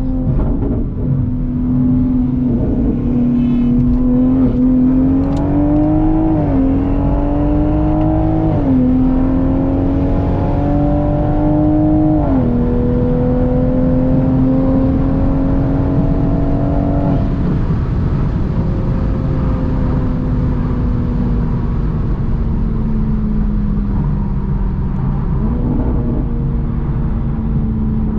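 Toyota Supra's turbocharged B58 straight-six at full throttle. It rises in pitch through three quick upshifts, then lifts off after about seventeen seconds and the revs sink slowly as the car coasts.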